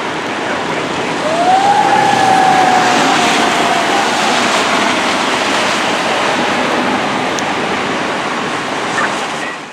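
Fire engine siren giving one quick rising wail about a second in that then slowly winds down over several seconds, over the steady rumble of the truck's engine and road noise.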